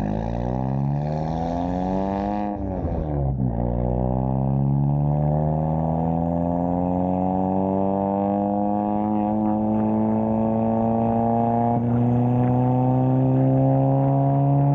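Turbocharged Volkswagen MK7 GTI four-cylinder engine under hard acceleration: the pitch climbs for about two and a half seconds, drops sharply at an upshift around three seconds in, then climbs slowly and steadily again through the next gear.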